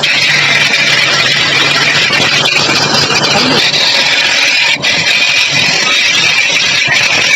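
Pressure washer running with its motor humming under a steady hiss of water spray, blasting dirt and soap residue off a washing machine drum. The spray breaks off briefly about two-thirds of the way through.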